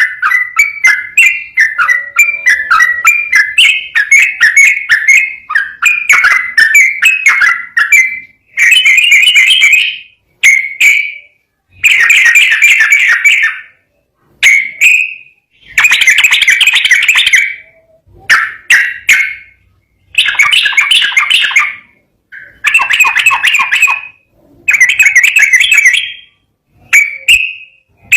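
Yellow-vented bulbul (trucukan) singing loud, rapid bubbling song. For about the first eight seconds it runs on as a fast unbroken string of notes, then it breaks into repeated phrases of one to two seconds with short pauses between them.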